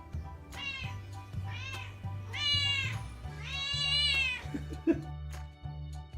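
A cat meowing four times, each call rising and falling in pitch, with the last two longer and louder. Background music with a steady beat plays underneath.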